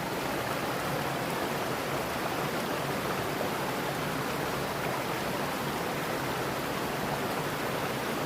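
Mountain stream running over rocks: a steady, even rush of water that does not change.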